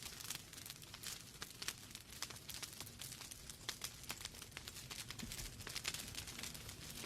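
Log fire burning in a fireplace, crackling with irregular sharp pops and snaps over a soft steady hiss.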